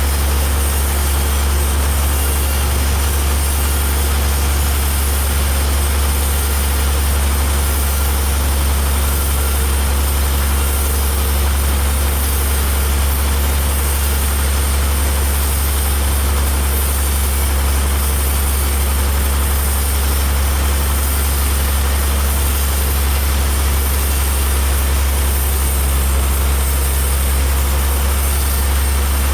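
Heavy engine running steadily, a deep even drone that holds the same speed throughout.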